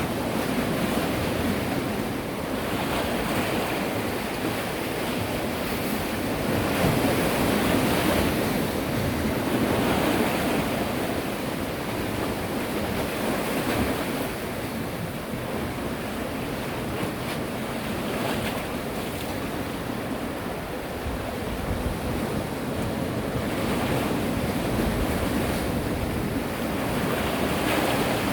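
Sea waves washing in and breaking, the wash swelling and falling every few seconds, with wind rumbling on the microphone.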